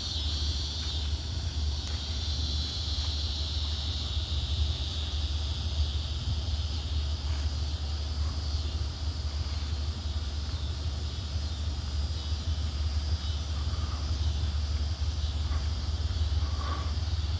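Low, steady rumble of an approaching diesel freight train, with insects chirring steadily in the background.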